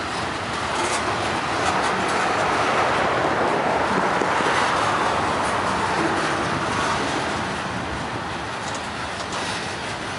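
Freight train of boxcars and covered hopper cars rolling past at close range: steel wheels running on the rails make a steady rush of noise with faint clicks, growing a little louder a couple of seconds in and easing off toward the end.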